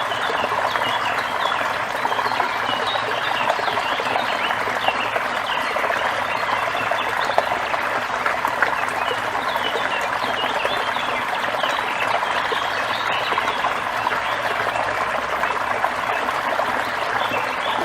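Steady splashing of a small waterfall, with many birds chirping and singing over it throughout.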